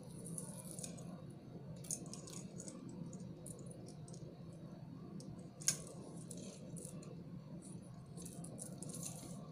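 Small plastic candy beads and metal T-pins being handled, giving light scattered clicks and rattles, with one sharper click a little past halfway. A steady low hum runs underneath.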